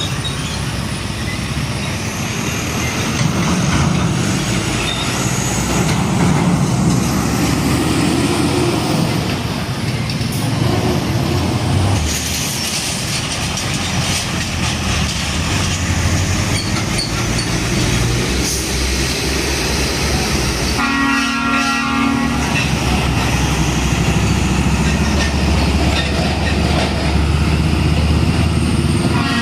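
Heavy diesel trucks running past in continuous traffic, with a low engine drone. A horn sounds once for about a second and a half roughly two-thirds of the way through.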